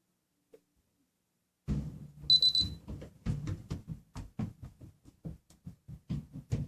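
A short, high electronic beep about two seconds in, among a run of irregular knocks and bumps from things being handled.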